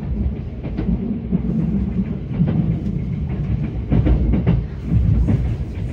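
Kintetsu 21000 series Urban Liner express train running, heard from inside the car: a steady low rumble with wheels clacking over rail joints, and a few louder clacks in the second half.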